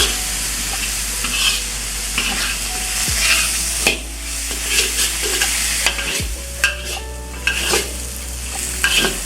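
Chicken and vegetables sizzling as they are stir-fried in a hot pan, with a spatula knocking and scraping against the pan every second or so at an irregular pace.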